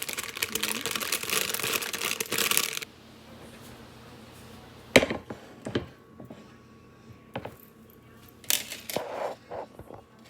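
Plastic packaging crinkling and rustling for about three seconds, then a few sharp knocks and clicks of things being handled.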